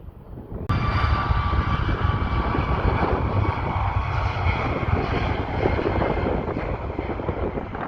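Airliner engines running loud near the runway: a roar with a steady high whine over it. It starts abruptly a little under a second in and eases slightly near the end.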